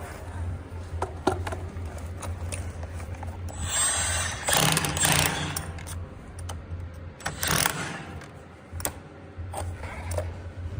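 Wind buffeting the microphone as a steady low rumble, with scattered sharp knocks and clatter from tile-removal work and two louder rushing bursts around the middle.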